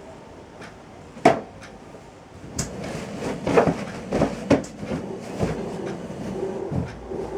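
A single sharp knock a little over a second in, then from a few seconds in a run of irregular knocks and clatter of objects being handled and set down.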